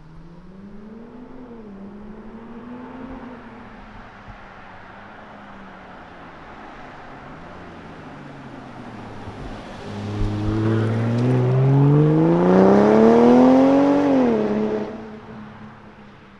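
Turbocharged inline-six of a BMW G05 X5 45e, with a stage 1 tune, an OPF-delete mid-pipe and a valved catback exhaust, running at light throttle and then, about ten seconds in, accelerating hard, its pitch climbing for about four seconds before the throttle is lifted and the sound falls away.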